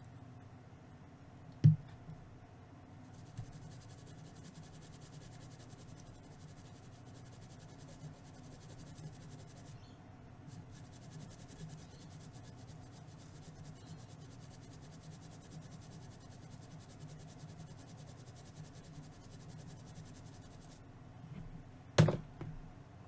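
Faint scrubbing of a toothbrush cleaning flux off a laptop logic board, over a low steady hum. Two sharp knocks, one about two seconds in and one near the end.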